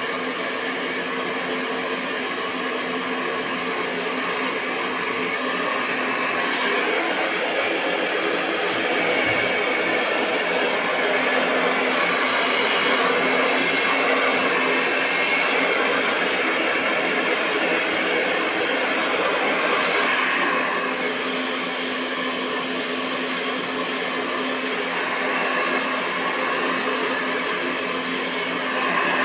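Handheld hair dryer running continuously: a steady rush of blown air over a constant motor hum, swelling a little louder now and then.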